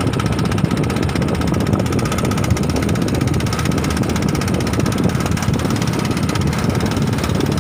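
An engine running steadily, a continuous low drone with a faint steady whine above it.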